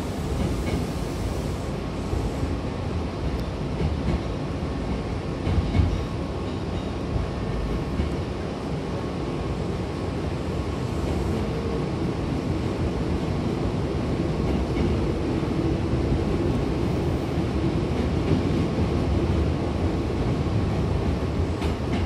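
Hankyu Kyoto Line commuter train running, heard from inside the passenger car: a steady rumble of wheels on rail with a faint steady whine, a brief knock about six seconds in, and a low hum that grows stronger in the second half.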